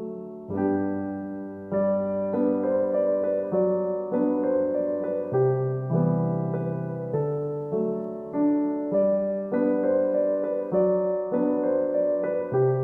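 Background piano music: a gentle, slow piano piece with soft chords.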